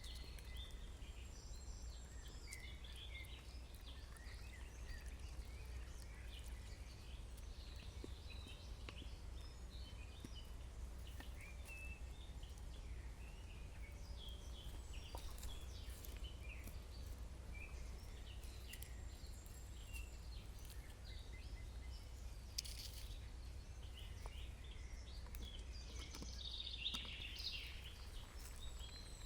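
Birds chirping and calling in the forest in many short scattered notes, over a steady low rumble, with a couple of sharp clicks in the second half.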